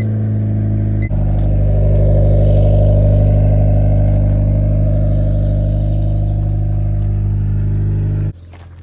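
Car engine idling steadily just after starting, with a brief break about a second in; it stops abruptly near the end.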